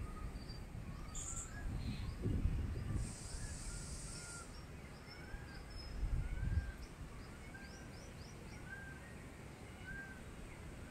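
A bird calling outdoors, a short clear note repeated about once a second, with a few faint higher chirps partway through. Low rumbles of wind noise come twice, about two seconds in and about six seconds in, and are louder than the calls.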